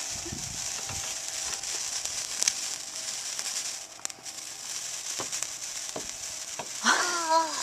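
Handheld sparkler burning with a steady fizzing hiss and faint scattered crackles.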